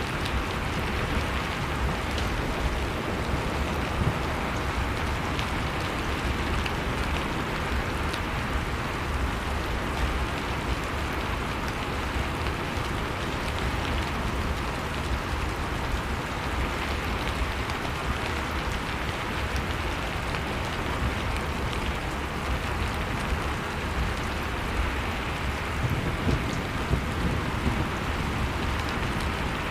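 Wood fire crackling with small scattered pops over a steady rushing roar of blizzard wind.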